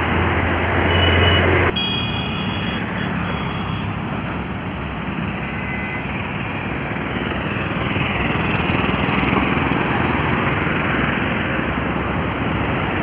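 Highway traffic with heavy trucks going by: a steady rush of engine and tyre noise. The sound changes abruptly about two seconds in, then swells a little as a vehicle passes near the middle.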